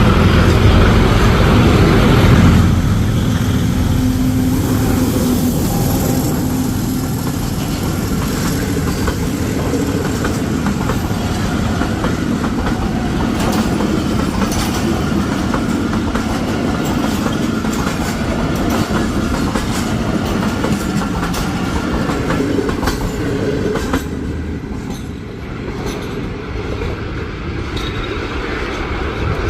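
Passenger train (the Pakistan Express) running on the track, with a steady rumble and wheels clicking over rail joints. It is loudest for the first couple of seconds and eases off a little near the end.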